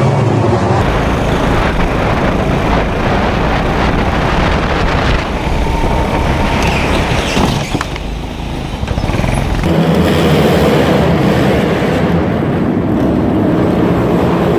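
Loud racing car engines running hard. The sound changes abruptly about a second in and again near ten seconds in, with a brief drop in level around eight seconds.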